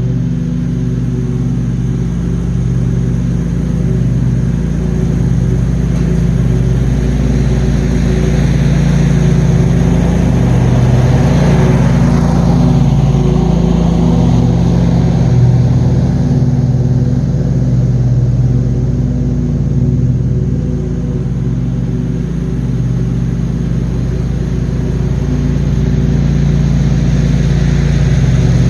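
John Deere QuikTrak 652R stand-on mower running steadily while mowing, its engine hum steady throughout. A rushing swell builds and fades around the middle.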